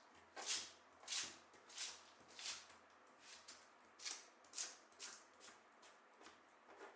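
Repeated swishing, rubbing strokes, about one and a half a second.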